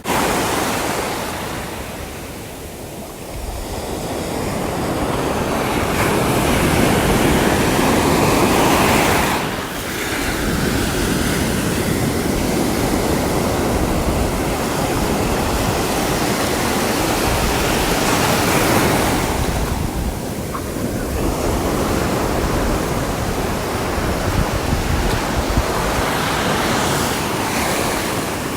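Sea waves breaking and washing ashore in a continuous surf. The wash swells to its loudest about a quarter of the way in, drops back briefly, then rises again into a steady roar of surf.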